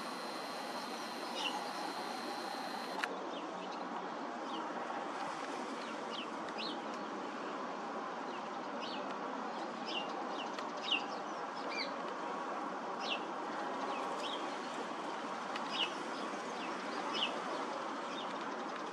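Birds chirping now and then, short high calls at irregular intervals, over a steady outdoor background noise. A faint high-pitched whine runs for the first three seconds and cuts off suddenly.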